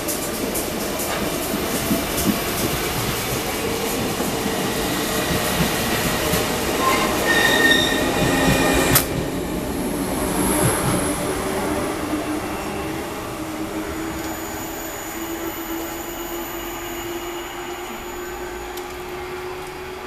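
RER double-deck electric train running past along the platform, with rumbling wheel noise and a brief wheel squeal about eight seconds in. After that a slowly rising electric motor whine is heard as the train draws away and fades.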